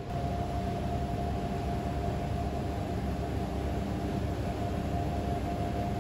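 Train running, a steady rumble with a thin steady whine running through it.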